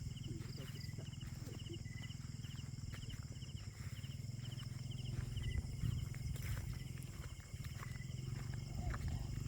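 Insect chirping steadily, short high pulses about twice a second, over a steady low rumble.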